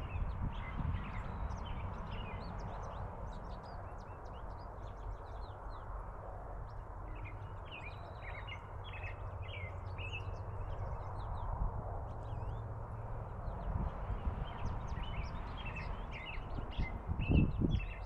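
Small birds chirping again and again, short high calls over a steady low background noise, with a couple of low thumps near the end.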